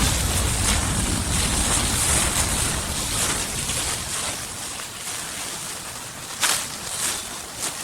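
Outdoor forest ambience with wind buffeting the microphone, heaviest in the first few seconds, over a steady hiss. Near the end come two short crackles, like dry leaves being stepped on or rustled.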